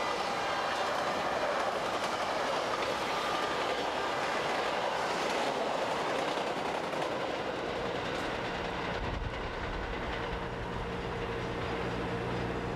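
Metra bilevel commuter train passing over a grade crossing: a steady rush of wheels on rail with some clickety-clack. About eight seconds in the rush gives way to a lower, steady hum with a faint held tone.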